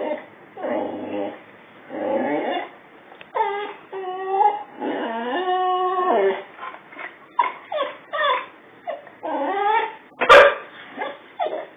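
Boxer dog barking and whining at its own reflection: a run of short barks and yips, with longer wavering whining cries in the middle. A single sharp knock just after ten seconds is the loudest sound.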